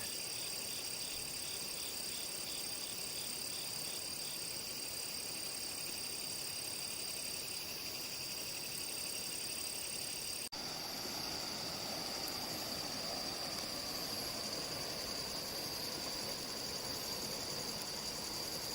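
Night insect chorus: several insects keep up a steady high trilling. A brief break comes about ten seconds in, after which one of the higher trills is gone.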